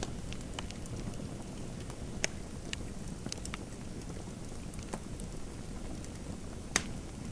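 Fireplace fire crackling: a low steady rush with scattered sharp pops, the loudest about two seconds in and again near the end.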